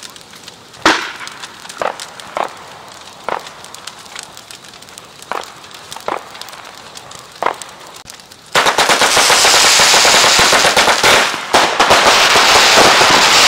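Firecrackers going off: a few sharp single bangs about a second apart, then from about eight and a half seconds a long string of crackers popping in rapid fire, the loudest part.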